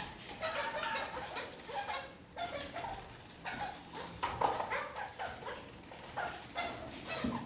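Red-crowned kakariki (parakeets) chattering: a busy run of short, yapping calls, one after another.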